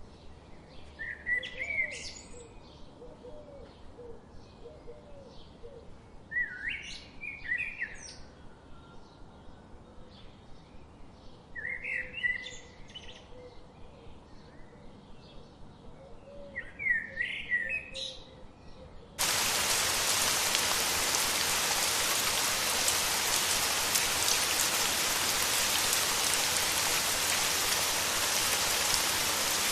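A bird singing a short, bright phrase four times, about every five seconds, over faint lower chirping. About two-thirds of the way through, the sound cuts suddenly to steady, louder rain.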